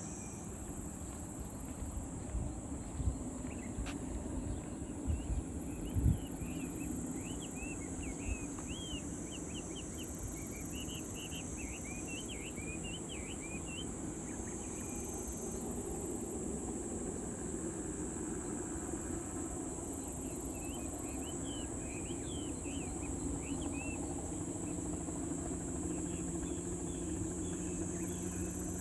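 Rural outdoor ambience: birds chirping in quick clusters over a steady high insect drone, with a low steady engine rumble underneath and a faint hum coming in near the end.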